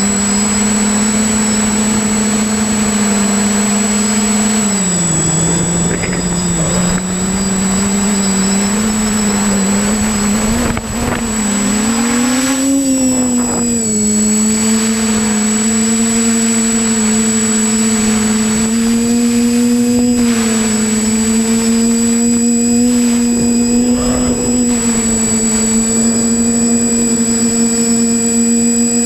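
Quadcopter's electric motors and propellers droning steadily, heard close up from the onboard camera; the pitch dips about five seconds in and swells briefly around twelve seconds as the throttle changes, over a constant high whine.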